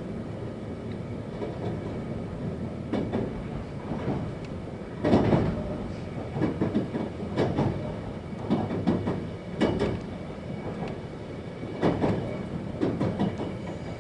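Interior sound of a 521-series electric train running on the rails: a steady low rumble broken by irregular sharp clacks of the wheels over rail joints and points, the loudest about five seconds in, as it nears a station stop.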